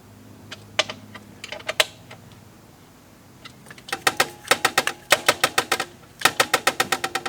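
Ratchet wrench clicking as fasteners are turned: a few single clicks, then two quick even runs of about seven clicks a second.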